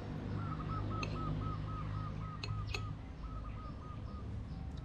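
Birds calling in the trees: one gives a fast series of short, even notes, about five a second, that stops and starts again briefly, over fainter high repeated chirps. A few sharp clicks come through in between.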